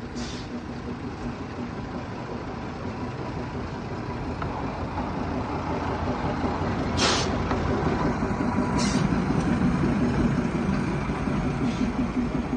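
Small diesel locomotive of a narrow-gauge forest railway train running, its engine and wheels rumbling steadily and growing louder, with two short hisses of air about seven and nine seconds in.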